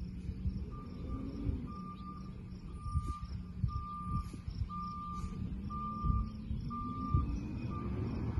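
McNeilus side-loader refuse truck's backup alarm beeping steadily, a little more than one beep a second, as the truck reverses, with its diesel engine running underneath. The beeping stops near the end as the engine pitch rises.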